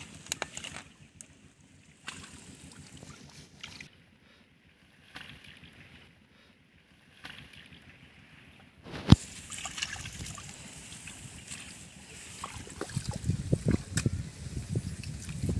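Water sloshing and splashing in a shallow, muddy flooded drain as hands work through it, in irregular surges that grow busier near the end. A single sharp knock sounds about nine seconds in.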